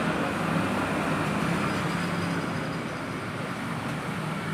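A motor vehicle engine running with a steady hum, slowly getting quieter.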